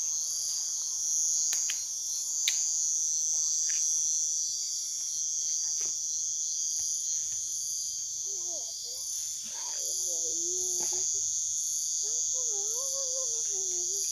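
Insects calling in chorus: a steady high trill with a pulsing call repeating about one and a half times a second. Faint voices come in during the second half.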